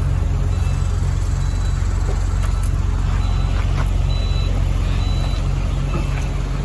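Heavy loader's diesel engine running at a steady, loud drone. A few faint, short high beeps sound in the middle.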